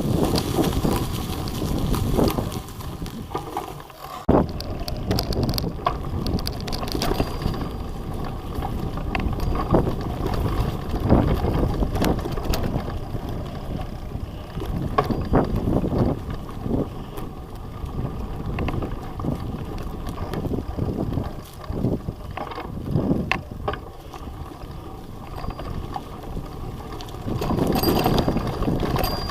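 Wind rushing over the microphone of a bicycle being ridden on a forest track, with irregular clicks and knocks from the bike jolting over bumps. A brief drop about four seconds in, and louder gusts near the end.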